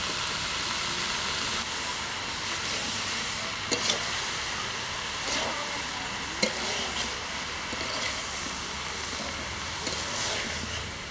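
Mixed vegetables sizzling in a metal kadai, stirred with a metal spatula that clinks against the pan a few times.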